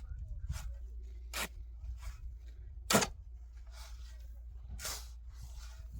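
A series of sharp knocks or cracks, the main ones coming roughly every one and a half seconds, the third the loudest, over a low steady rumble.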